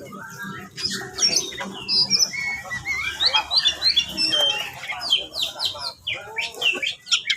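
Oriental magpie-robin singing a fast, varied song of whistles and harsh chirps in excited, challenging form.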